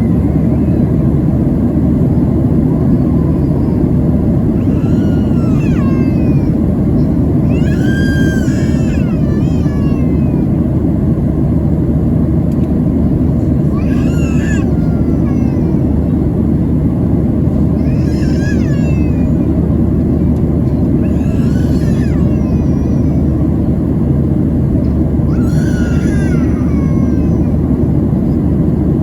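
Boeing 737-700 cabin noise at cruise: a steady, loud rumble of engine and airflow. About six short, high-pitched, wavering cries come and go over it, spaced a few seconds apart.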